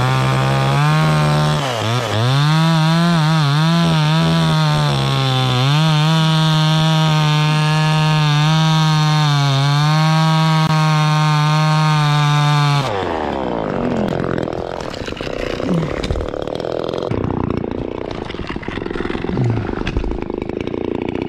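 Chainsaw cutting a white pine at full throttle for the final felling cut, its pitch dipping and recovering as the chain bites. About thirteen seconds in, the throttle is let off and the engine note falls away, leaving a lower, rougher sound.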